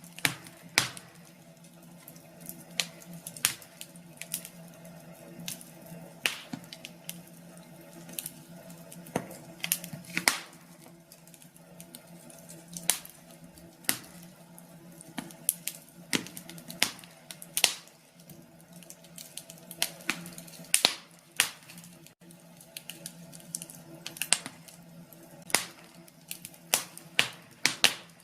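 Wood fire crackling: irregular sharp pops and snaps of burning logs over a soft background hiss, with a faint steady low hum underneath.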